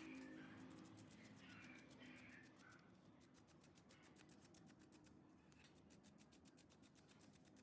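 Near silence, with faint bird calls in the first few seconds over a faint rapid ticking.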